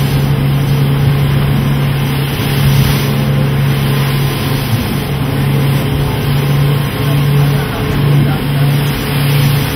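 Outboard motors of an aluminum tour boat running steadily under way, with the rush of wind and water; the low engine tone wavers in the second half.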